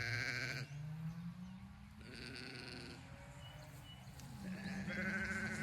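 Sheep bleating, three wavering calls each lasting up to about a second, over a low steady drone.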